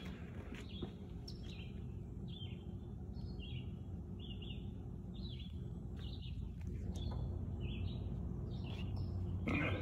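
A bird chirping over and over, short high two-note chirps about once a second, over a steady low background rumble.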